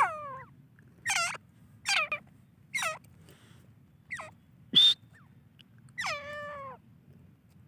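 Grey francolin calling: a series of about seven short, high calls, each falling in pitch, spaced roughly a second apart. A longer drawn-out falling call comes near the end.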